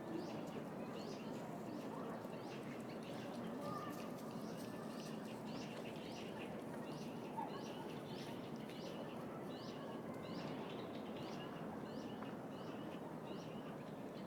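A bird calling over and over, short falling chirps a little more than once a second, over the steady background hum of the city.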